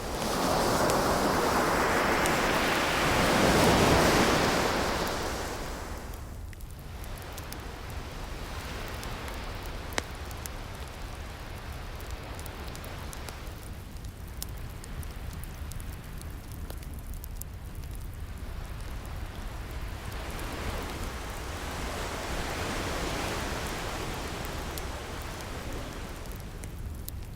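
Ocean waves washing in. A large wave swells over the first few seconds and falls away by about six seconds, and a smaller one rises and fades later. Occasional faint pops of a crackling wood fire sound throughout.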